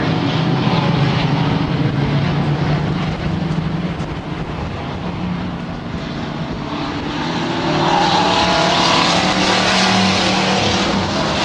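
Stock race trucks running on a dirt oval, several engines blending into one continuous din. It dips a little midway and grows louder again about two-thirds through.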